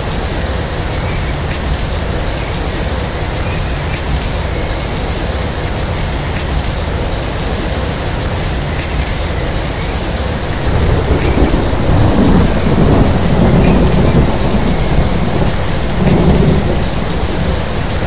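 Steady rain falling, with a low rumble of thunder rolling in about two-thirds of the way through and dying away shortly before the end.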